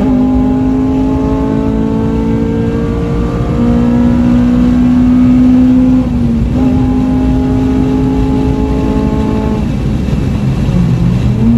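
Modified Honda Civic Type R's K-series four-cylinder engine pulling under load on track, its pitch climbing steadily, dropping at a gear change about six seconds in, then climbing again. The pitch falls about ten seconds in and picks up again near the end.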